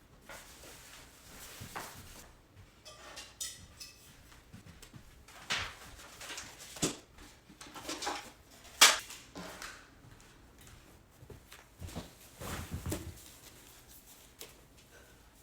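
Irregular knocks, clicks and rustles, the loudest a sharp click about nine seconds in.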